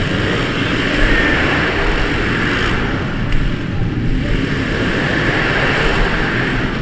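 Pit bike engines running hard during a race, revving up and down, with a constant rumble.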